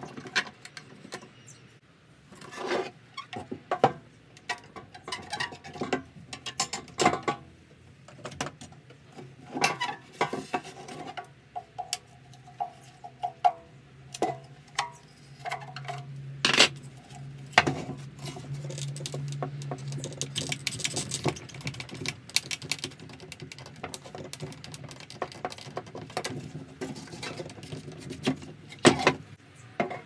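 Copper pipe and wooden parts handled on a workbench: irregular clinks and knocks of metal on wood and metal, with a low steady hum for a few seconds in the middle.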